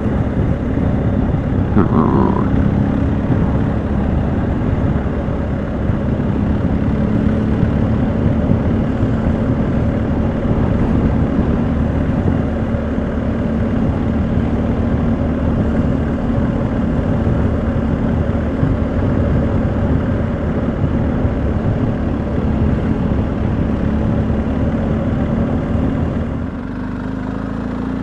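BMW motorcycle and sidecar under way, its engine running steadily under a dense rush of wind and road noise. It eases off about 26 seconds in.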